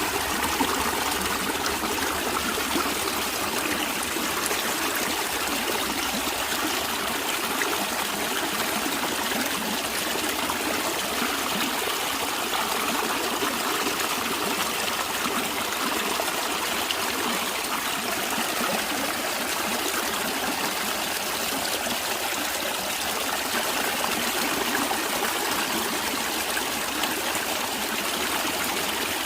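Stream water running and trickling in a steady, even rush.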